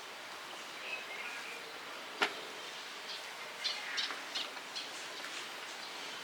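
A single sharp click about two seconds in, then a run of lighter clicks and taps, over a steady outdoor background hiss with faint bird chirps.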